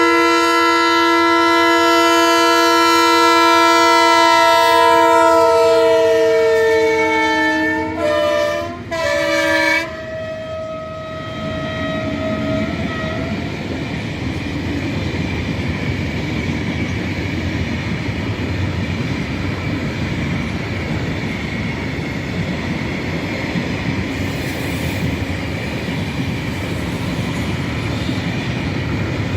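Freight train locomotive's air horn sounding one long blast, its pitch sagging slightly, then two short blasts, followed by the steady rumble of the train rolling past.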